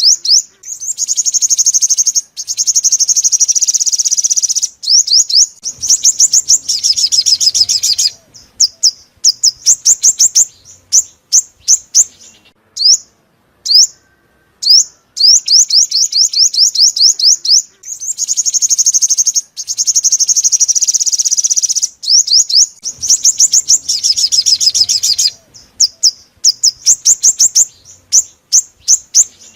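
Sunbird song: fast, high, ringing trills and rapid runs of chirps, thinning to single chirps about a second apart. The same sequence repeats once, as a looped lure recording does.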